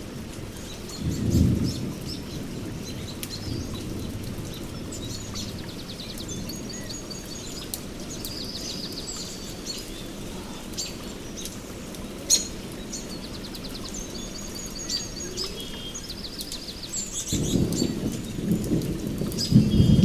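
Steady rain with rolling thunder: one rumble swells about a second in, and another builds over the last few seconds. Birds call throughout over the rain in high chirps and rapid trills.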